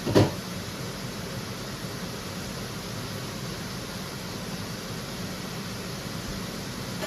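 Steady even hiss of kitchen noise, with one sharp loud knock just after the start.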